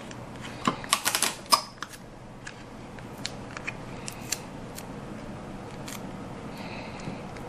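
Small sharp clicks and taps from hands working on a model: a quick cluster of clicks about a second in, then scattered light ticks, with a brief soft rustle near the end.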